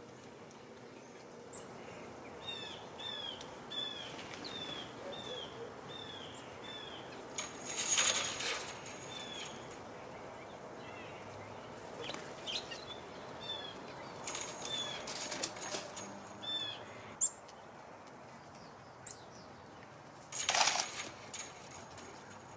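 A songbird calling: a run of short downslurred whistled notes, about two a second, in two bouts. A few brief rushing noises stand out loudest over it, near the middle and near the end.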